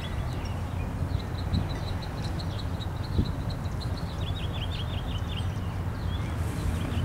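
A small bird singing a quick run of short high chirps that ends in a few falling notes, over a steady low rumble.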